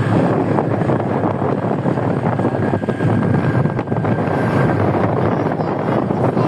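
Steady wind buffeting the microphone over the running noise of a moving vehicle, with a faint thin whine for a couple of seconds in the middle.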